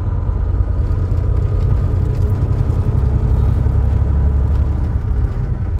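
Semi truck's diesel engine running while the truck moves slowly in traffic, a steady low rumble.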